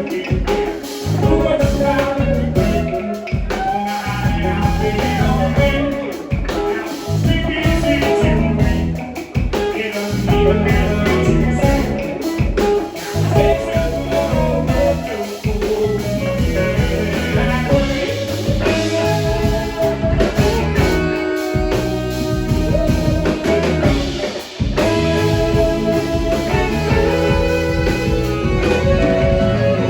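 Live band playing blues-rock: electric guitar, bass and drum kit.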